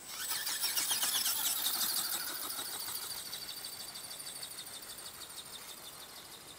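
Model flying wing's motor and propeller whining as it flies past. The sound swells in the first second, falls in pitch, then fades steadily as the wing moves away.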